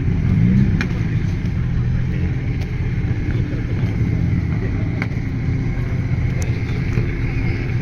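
A classic car engine runs steadily and is briefly revved, rising in pitch, about half a second in.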